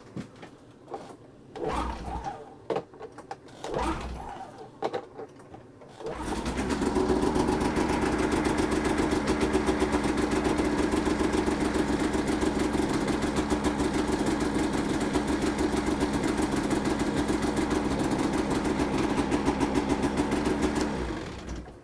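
Polaris RMK 800 snowmobile's two-stroke twin engine: several short cranking bursts, then it catches about six seconds in and runs with a fast, buzzing beat before cutting off near the end. It is a sled that fires but won't stay running, which the owner puts down to a dirty electrical connection.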